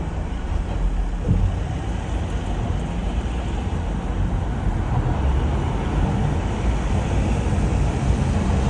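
London street traffic with a heavy truck's engine running: a steady low rumble with road noise, and a brief knock about a second in.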